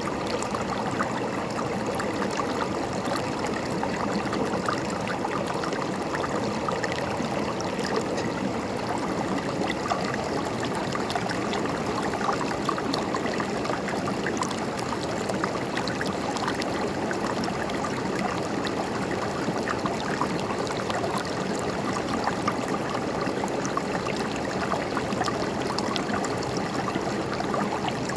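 A river flowing steadily over rocks, a constant rush of water with fine gurgling and splashing.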